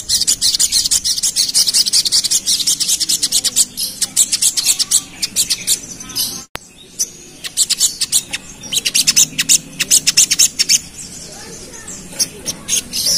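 Little spiderhunter (sogok ontong) calling in rapid-fire runs of high, sharp chips in two long bursts, broken by a brief gap about six and a half seconds in, with more chips near the end.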